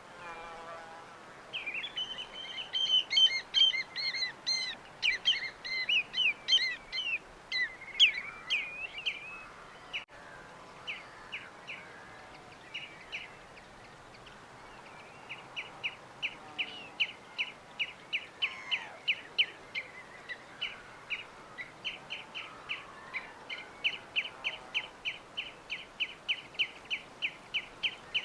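Small songbirds singing: a rapid, jumbled burst of chirps for several seconds, then after a lull one bird repeating a short chirp a few times a second, over a faint steady background hiss.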